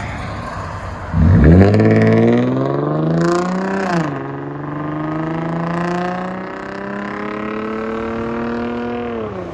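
Lexus IS 250's 2.5 L V6 through LCGP mid resonators and a rear muffler delete, accelerating hard. It comes in suddenly about a second in and climbs in pitch, then drops sharply about four seconds in with an upshift. It pulls up again more slowly, holds steady, and eases off near the end.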